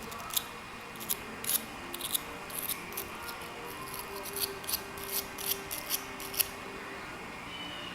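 Steel wire brush scrubbing carbon gunk off a lawnmower spark plug in short, irregular scraping strokes.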